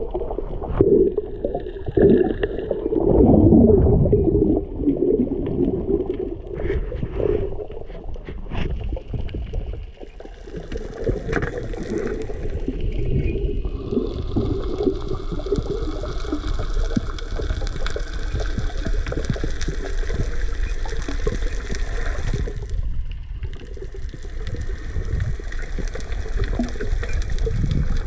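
Muffled water sloshing and gurgling around the microphone, with a steady low rumble; a higher hiss joins about halfway through and drops out near the end.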